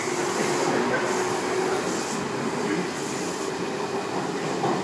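Sydney CityRail electric suburban train pulling out of the station, heard from inside the carriage: a steady rumble of wheels on the track with a faint even hum.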